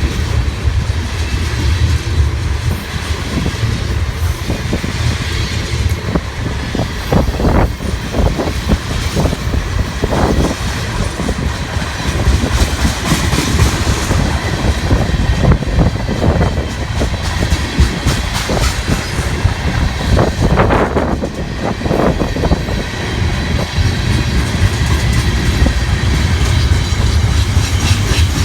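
Freight train cars rolling past at close range: a steady heavy rumble with wheels clicking over the rail joints.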